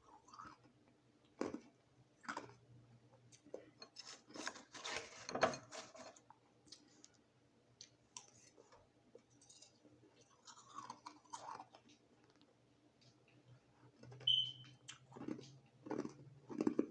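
Crushed ice being chewed and crunched close to the microphone, in irregular bursts with short pauses between bites, busiest about four to six seconds in and again near the end.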